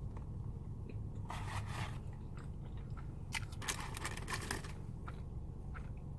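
Close-up chewing of a big mouthful of food, with two crunchy bouts, the first about a second in and a longer one from about three to four and a half seconds.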